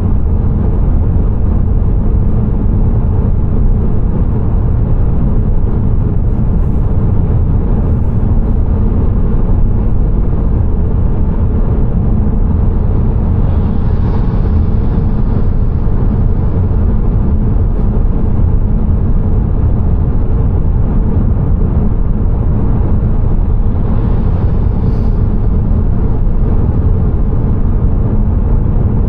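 Car driving at steady speed: a loud, constant low rumble of road and engine noise, with a brief swell of hiss twice, about halfway through and near the end.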